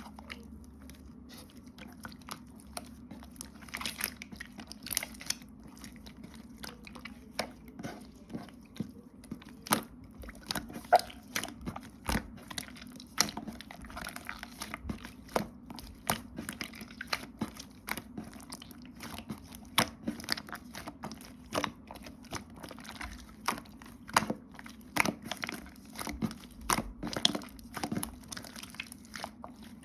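Irregular crunching and crinkling clicks, a few to several a second, over a steady low hum.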